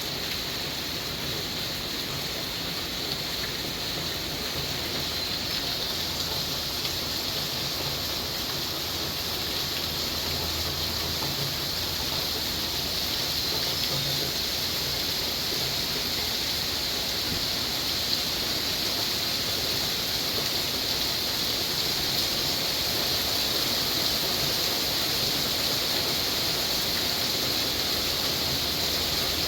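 Rain shower falling steadily, an even hiss that slowly grows a little louder.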